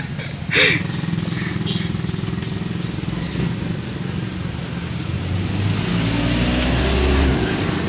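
A motorcycle engine running steadily. About four or five seconds in it grows louder and its pitch rises, then it drops back near the end.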